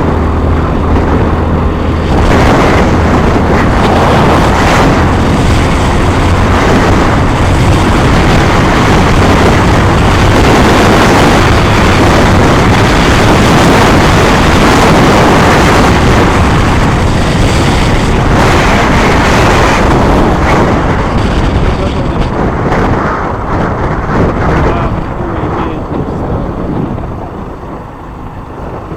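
Loud wind and road noise of a moving vehicle, a low engine hum under it at first; it eases off near the end.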